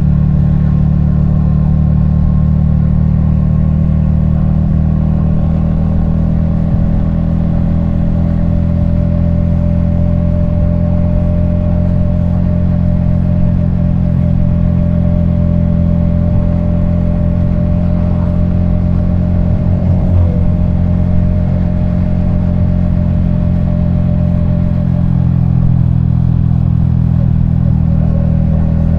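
Yamaha XSR155's single-cylinder engine and exhaust running at a steady cruise, the engine note holding nearly constant, as heard from a helmet-mounted camera. A short falling tone cuts across it about twenty seconds in.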